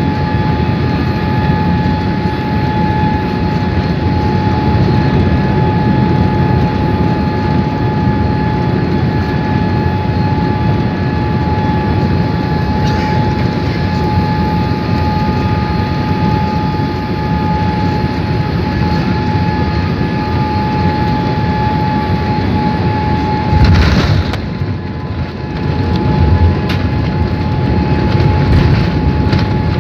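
Cabin noise of a Boeing 787-8 on final approach: steady airflow and engine noise with a constant whine. About three-quarters of the way through comes a sudden loud thump as the wheels touch down, the whine stops, and the noise turns to an uneven rumble of the landing roll.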